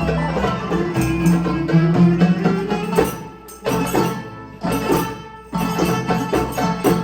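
Live traditional folk music from a small ensemble: a pitched melody over low sustained notes with hand-percussion strikes, breaking off briefly a few times in the middle.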